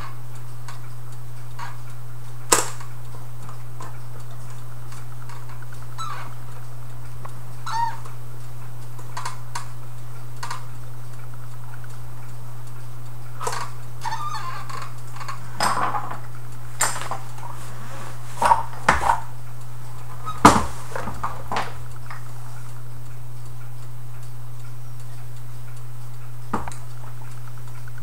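Small metal clock parts being handled as an antique clock is taken apart: scattered clicks and clinks, a few with short metallic ringing, grouped most thickly about two-thirds of the way through. A steady low hum runs underneath.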